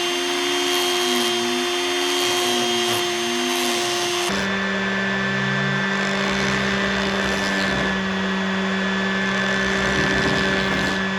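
An electric power tool's motor running steadily, its pitch wavering a little for the first few seconds. About four seconds in the sound changes abruptly to a steadier, lower motor hum.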